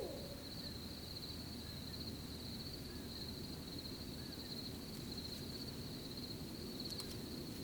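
Crickets trilling steadily at a high pitch over a low, even background hiss, with a few faint ticks near the end.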